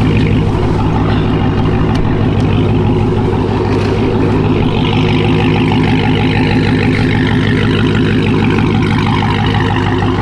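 A car engine idling steadily and loud, a constant low hum that doesn't change in pitch.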